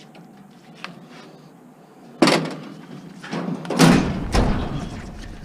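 Sudden knocks and clatter of metal being handled while a scrap appliance is stripped of its wiring: a sharp bang about two seconds in, then a heavier thud with a low rumble near four seconds and more knocks after it.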